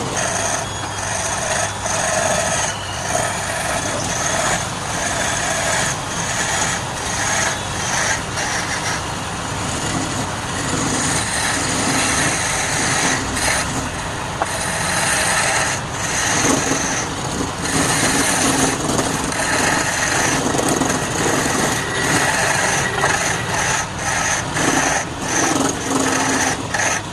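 Wood lathe running while a turning tool cuts the spinning wood: a continuous scraping hiss over the machine's steady hum, broken by many short dips.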